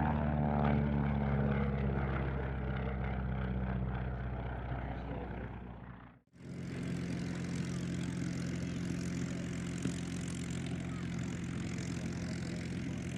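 Propeller aircraft engine flying past, its pitch falling as it goes by, then cut off abruptly about six seconds in. It is followed by another propeller aircraft's steady engine drone.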